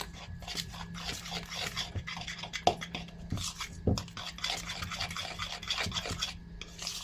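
A spoon stirring and scraping around a bowl, mixing cauliflower pieces into a thick flour-and-egg batter, in quick irregular rasping strokes with a few sharper knocks against the bowl.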